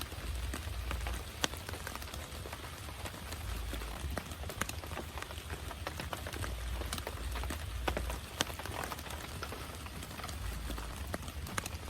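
Heavy rain falling, with many drops striking a surface close by as sharp, irregular taps over the steady hiss of the downpour.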